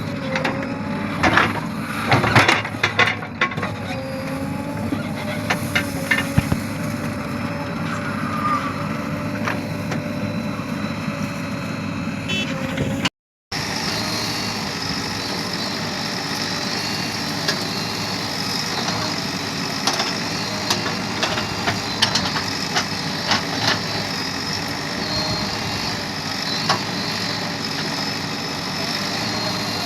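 Diesel engines of a backhoe loader and tractors running steadily at a worksite, with a wavering whine over the engine noise. A cluster of sharp knocks and clatters comes in the first few seconds, and the sound cuts out briefly about 13 seconds in.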